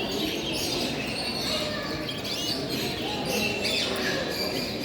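Many caged birds chirping and calling at once, short overlapping chirps and whistled notes, over a steady low hubbub of the hall.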